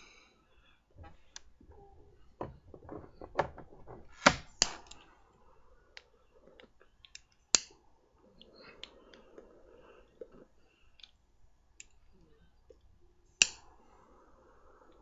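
Scattered sharp clicks and small taps, four of them loud, with soft breathy puffing in between: a man smoking and handling a Meerschaum pipe.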